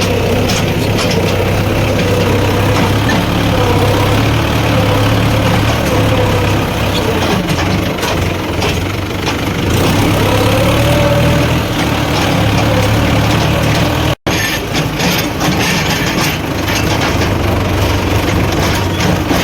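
Diesel engines of a JCB 3DX backhoe loader and a Mahindra tractor running steadily while mud is loaded, with a whine that rises and falls. The sound cuts out for an instant about fourteen seconds in, and scattered knocks follow.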